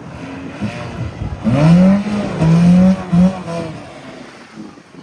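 Car engine revved hard: about one and a half seconds in the pitch climbs quickly and is held high, let off and picked up again twice in quick succession, then drops back.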